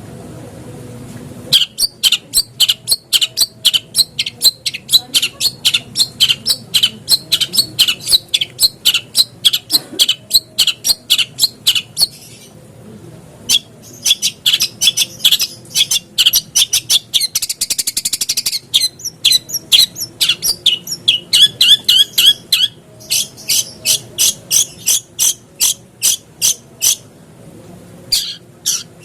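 Long-tailed shrike (cendet) calling in rapid series of sharp, harsh notes, about three to four a second, with a fast buzzy trill in the middle. The runs break off briefly about twelve seconds in and again near the end.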